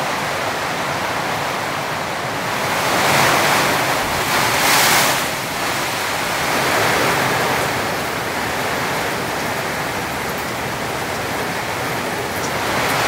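Torrential rain pouring down and drumming on the cabin's corrugated-metal roof, a steady, really loud rushing that swells louder about three seconds in and again near the end.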